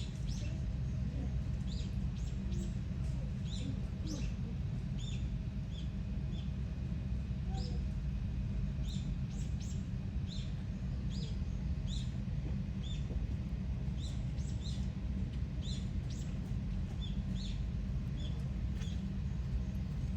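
Small birds chirping, short high calls scattered every second or so, over a steady low rumble.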